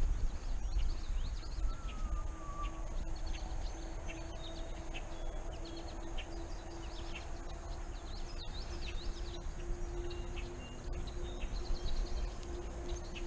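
Many small birds chirping and singing in quick, short calls throughout, over a steady low hum and a low rumble.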